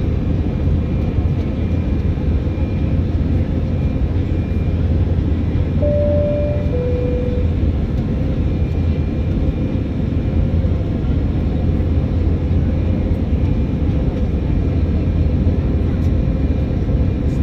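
Steady, loud cabin rumble of an Airbus A319 airliner, its engines and airflow heard from inside the cabin. About six seconds in, the cabin chime sounds once as a two-note high-low ding-dong.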